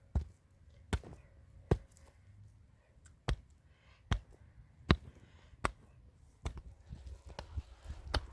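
Repeated sharp blows of a hand tool striking, about one every 0.8 seconds, with a short pause about two seconds in and lighter knocks near the end.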